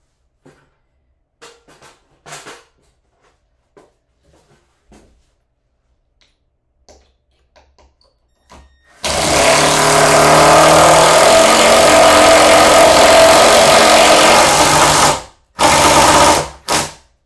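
Light handling knocks, then a power drill runs steadily for about six seconds and stops abruptly, followed by two short trigger bursts near the end, typical of driving a screw home.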